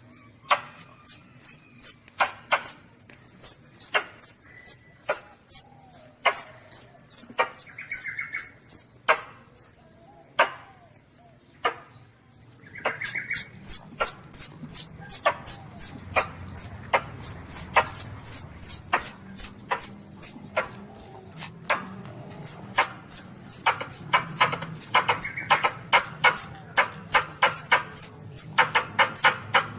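Asian palm civet kitten (baby luwak) calling: rapid, short, very high-pitched squeaky chirps, a few each second. The calls pause briefly around ten seconds in, then come faster and denser.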